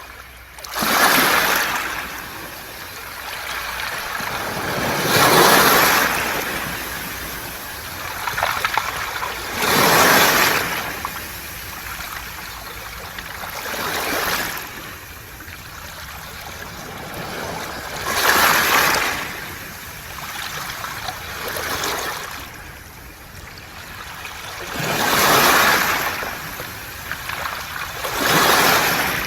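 Waves washing up and draining back over a round-pebble (mongdol) beach, with the hiss and rattle of water running through the stones. The surges swell and fade about every four seconds, eight times over.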